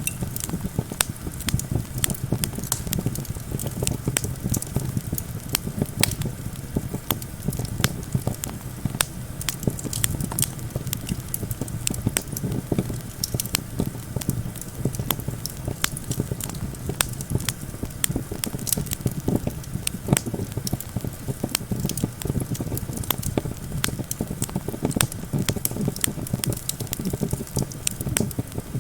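Wood campfire crackling, with frequent sharp pops, over a steady low rumble of wind.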